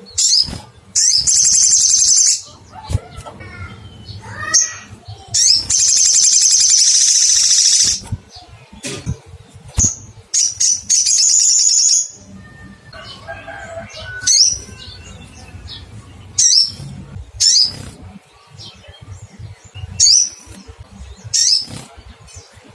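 Olive-backed sunbird calling: long, high, buzzy trills in the first half, then single sharp "cuitt" calls a second or two apart.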